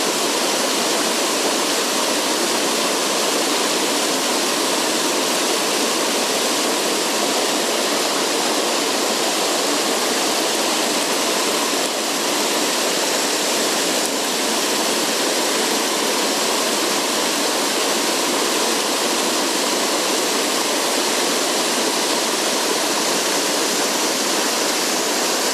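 Fast mountain stream rushing, a steady, even hiss of water over rocks.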